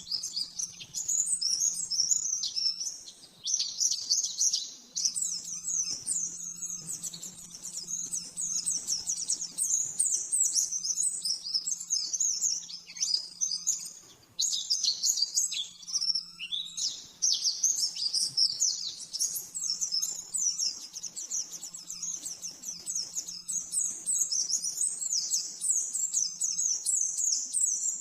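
Pleci (white-eye, Zosterops) singing its rapid, 'shooting' song: a fast, nearly unbroken stream of high twittering notes, with a few short breaks. A faint steady low hum lies underneath.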